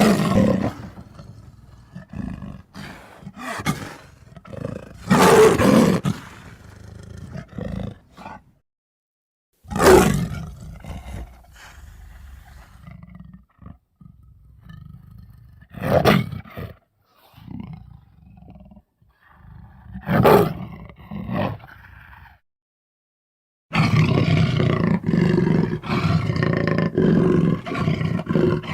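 Custom big-cat sound effects for a cartoon mountain lion: a string of separate roars a few seconds apart with quieter growling between them, then a longer unbroken run of growls and roars near the end.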